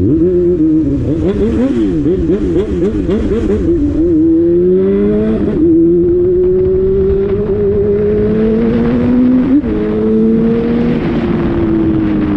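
Honda Hornet motorcycle engine heard from the rider's seat: the throttle is worked quickly on and off for a few seconds, then the bike pulls with a steadily rising engine note, with a short break around ten seconds in and the note easing down near the end.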